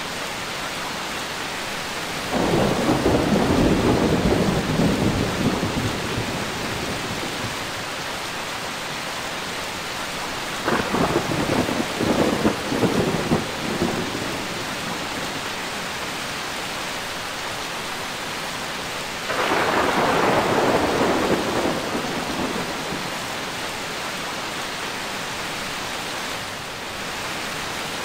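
Steady rain with three rolls of thunder, the first about two seconds in, the second about eleven seconds in with several sharp cracks, and the third about nineteen seconds in, each starting suddenly and dying away over a few seconds.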